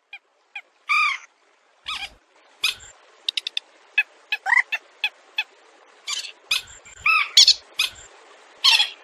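Rails calling (swamphen- and waterhen-type waterbirds): a run of short, sharp, irregular squawks and clicks, several a second, some notes arching up and down in pitch.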